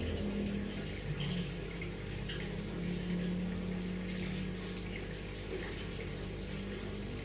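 Aquarium water trickling and lightly splashing, over a steady low hum.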